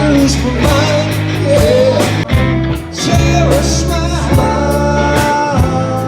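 Rock song with singing, electric guitar and drums, played through a car's stereo.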